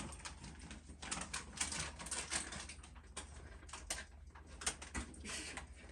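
Light, irregular clicking and tapping, several clicks a second at uneven spacing, over a low steady hum.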